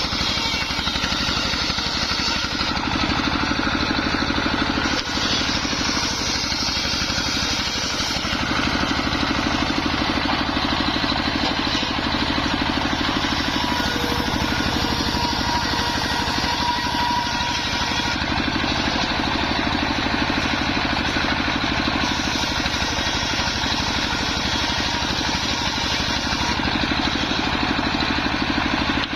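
Engine-driven homemade circular saw bench running steadily while its blade cuts waru (sea hibiscus) wood into battens. The cutting noise shifts every few seconds as the wood feeds through.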